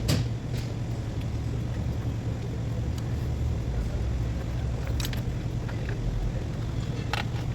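Ford Taurus V6 engine running steadily at a low hum, with a few short sharp clicks or taps over it.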